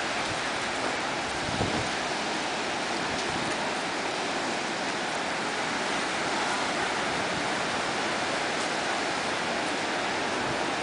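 Steady rushing of ocean surf, an even hiss that does not rise or fall.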